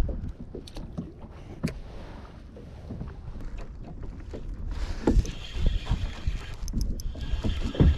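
Wind rumbling on the microphone, with scattered small knocks and clicks. A brighter hiss sets in about five seconds in.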